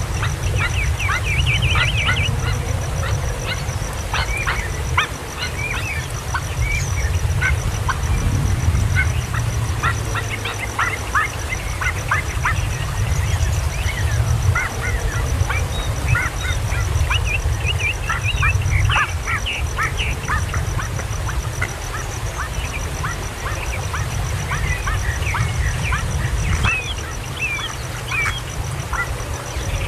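Baby kingfisher chicks calling: many short, sharp chirps in quick irregular runs, over a steady low rumble.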